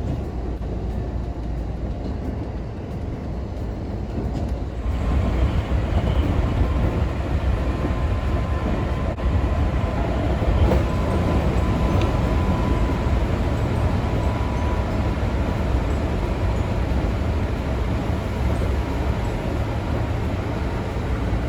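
A train running: a steady low rumble that grows louder about five seconds in, with a faint high whine for a few seconds in the middle.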